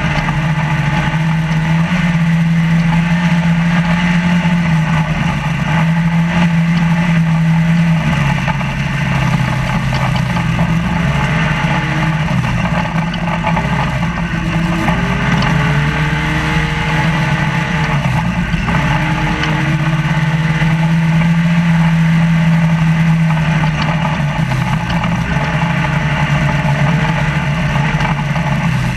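Trophylite desert race truck's engine running hard, heard from inside the cab, its pitch rising and dropping every few seconds with the throttle and gear changes, over steady loud road and rattle noise.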